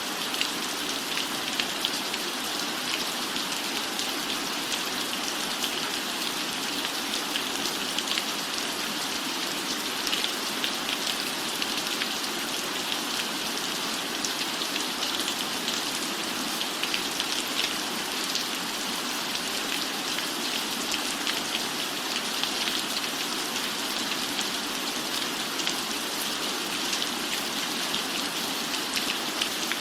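Steady rain falling, an even hiss with a dense patter of individual drops.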